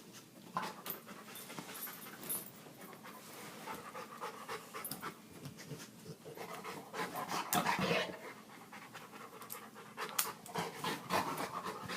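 Dog panting hard while going after a dropped padlock, with scattered clicks and scrapes throughout that are busiest about seven seconds in and again near the end.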